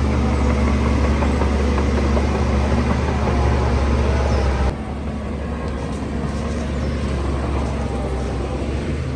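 Heavy diesel engine of earthmoving machinery running steadily with a deep hum. About halfway through the sound suddenly drops in level and turns duller, then carries on steadily.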